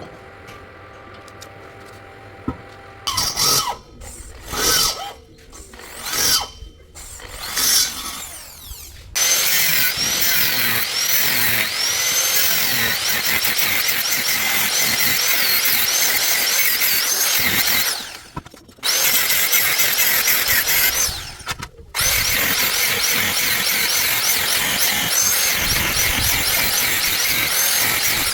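Power tool cutting steel with a loud, wavering high squeal. It starts with several short bursts, then runs continuously for long stretches, stopping briefly twice.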